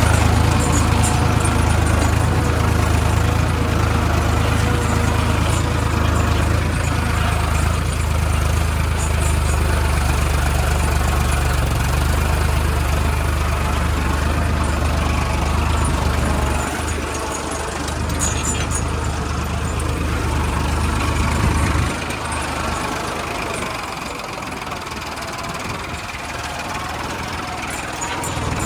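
Farmtrac 60 PowerMaxx tractor engine running with a loud, steady low note. The engine sound drops in level about two-thirds of the way through, and again a few seconds later.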